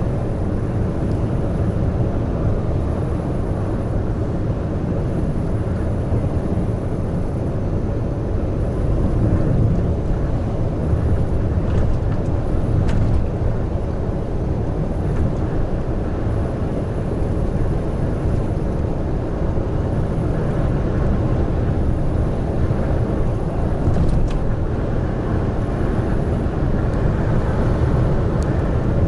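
Large truck cruising on an expressway: a steady low engine and road rumble, with a few faint ticks.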